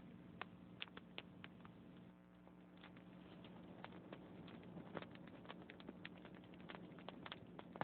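Logs burning in a fireplace, crackling faintly with irregular small pops and snaps that come thicker in the second half, over a low steady hum.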